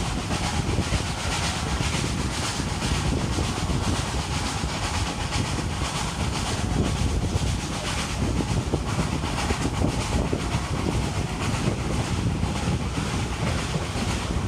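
Hunslet Austerity 0-6-0 saddle tank steam locomotive hauling its train at a steady pace: a continuous rumble of the running train with a run of rhythmic exhaust chuffs and wheels on the rails.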